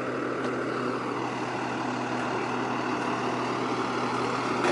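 A large vehicle engine idling steadily: an even low hum under a constant rushing noise.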